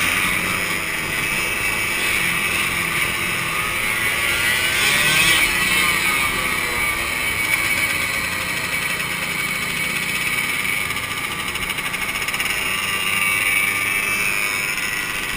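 Two-stroke motorcycle engines running, a steady engine noise with a slight swell about five seconds in.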